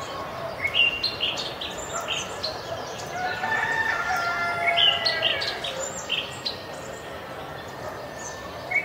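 Birds chirping in short, repeated notes, with a longer drawn-out call of several steady tones about three to five seconds in.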